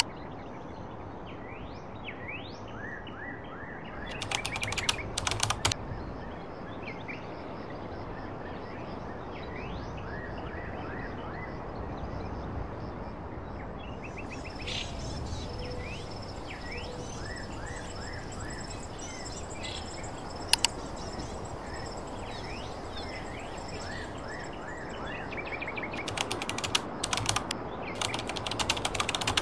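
Small birds chirping over a steady background hiss, with two bursts of rapid clicks, one about four seconds in and one near the end, and a single sharp click midway.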